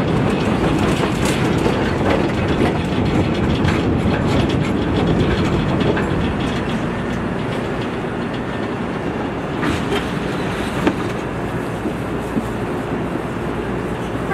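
Rapid-transit train running along the rails, a steady rumble with wheel clicks over rail joints, easing a little in the second half.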